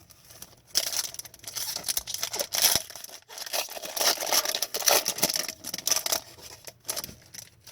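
A hockey card pack's wrapper being ripped open and crinkled in the hands: a run of irregular tearing and crackling from about a second in, dying away near the end.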